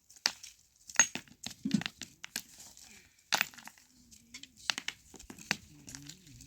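About a dozen sharp, irregular clicks and cracks, with faint voices in the background.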